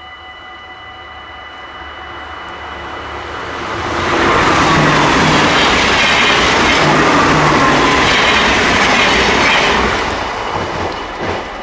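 Dutch NS intercity train passing over a level crossing at speed: the wheel and rail noise builds over the first few seconds, is loud from about four to ten seconds in, then fades as the train clears the crossing. The crossing's warning bells ring steadily throughout.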